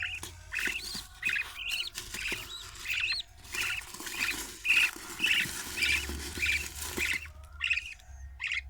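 Budgerigar chicks calling in short repeated cheeps, about two a second, over a hissing rustle that stops about seven seconds in.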